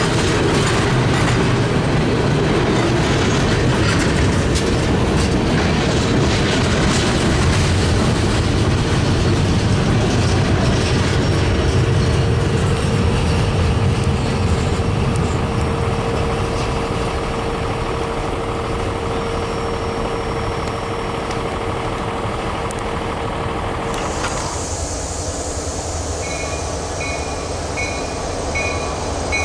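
Freight train of covered hopper cars rolling past at close range, steel wheels rumbling and clicking over the rails, with a faint steady squeal through most of it. About 24 seconds in the sound changes abruptly to a quieter rumble with a faint high beep repeating about once a second.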